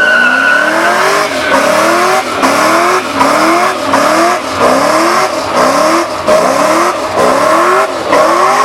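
Car engine revved hard again and again, its note climbing and falling back about twice a second, with tires squealing under it, as in a burnout.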